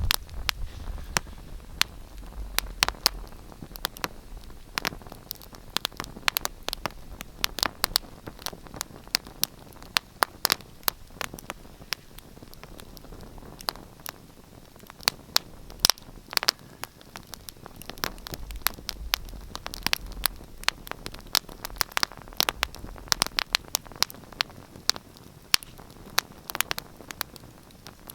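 Wood fire crackling in a fireplace: irregular sharp pops and snaps over a soft steady hiss. A low rumble swells twice, at the start and about two-thirds of the way through.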